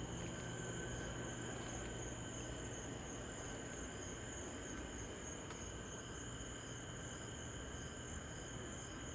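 Crickets chirping steadily, with a faint regularly pulsing chirp over the continuous trill.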